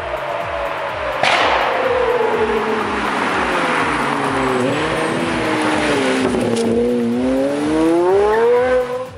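High-revving sports car engine, its pitch rising and falling as it is revved and driven, with a sudden rush of noise about a second in. A low, even beat runs underneath.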